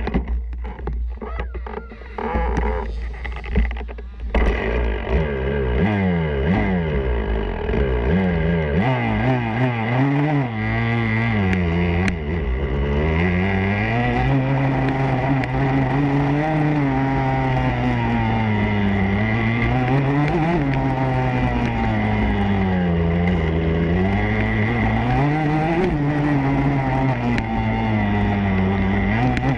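Motocross bike engine under a rider, revving up and falling back again and again as the throttle opens and closes through the track's sections, heard from an onboard camera with a steady low wind rumble.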